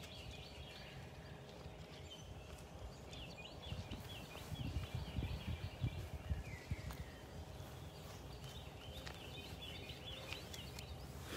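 Songbirds chirping and trilling in short repeated phrases, with a stretch of low rumbling and thumps close to the microphone around the middle.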